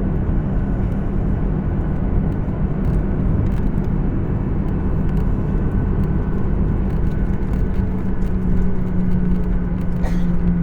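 Cabin noise of an Embraer 175 regional jet taxiing: a steady rumble with a low hum from its GE CF34 turbofan engines. The hum grows a little louder and clearer near the end.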